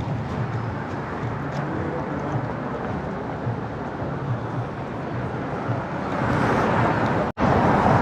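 Steady city street noise of a busy crowd and traffic. It grows louder about six seconds in and drops out to silence for a split second just before the end.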